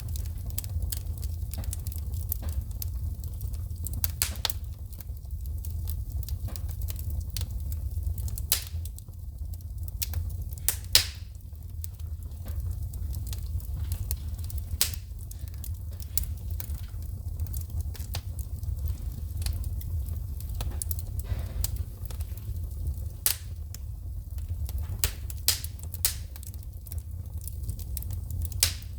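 Wood fire in a fireplace crackling, with irregular sharp pops and snaps of sparks over a steady low rumble of burning; one pop about eleven seconds in is the loudest.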